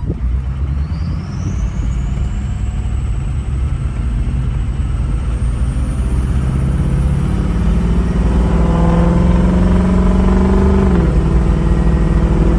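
Ford 6.0 Powerstroke turbodiesel V8 with a straight exhaust delete pipe, pulling hard under part throttle. The turbo whistle rises steadily in pitch as it spools up over the deep engine note, which grows louder and steps down once near the end as the transmission shifts up.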